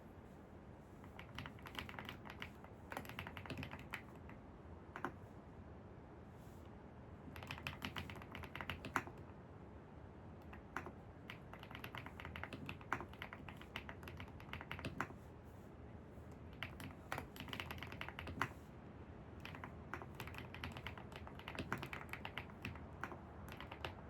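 Typing on a computer keyboard in irregular runs of key clicks with short pauses, over a steady low background hum.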